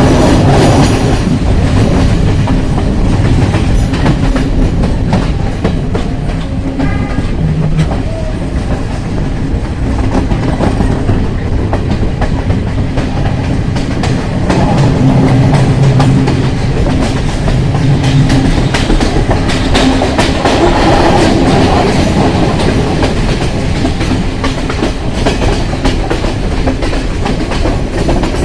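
Train running along the track with a steady rumble, its wheels clicking over the rail joints in a continuous clickety-clack.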